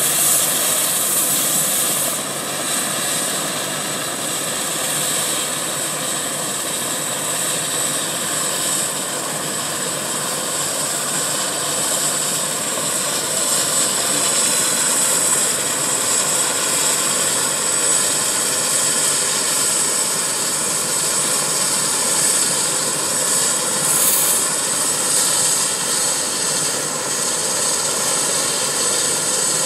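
Medical helicopter's turbine engines and rotor running steadily, with a high, steady turbine whine over the rotor noise.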